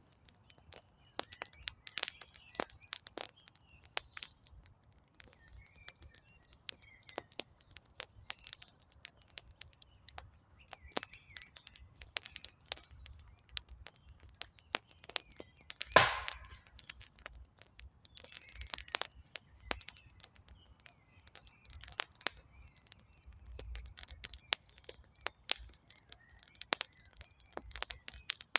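Wood campfire crackling, with many irregular sharp snaps and one much louder pop about halfway through.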